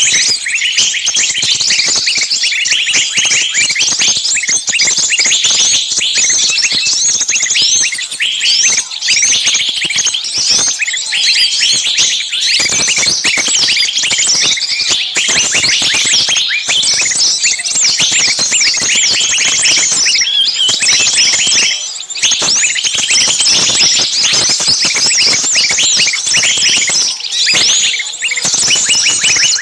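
Many small birds chirping and twittering at once in a dense, continuous chorus of short overlapping calls.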